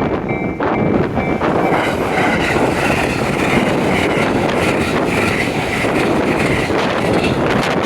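A train passing over a railway level crossing, its wheels running loud and steady on the rails. A thin high steady tone stops about a second and a half in.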